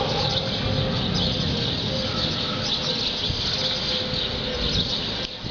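Small birds chirping: many short, high twittering calls over a steady low background noise.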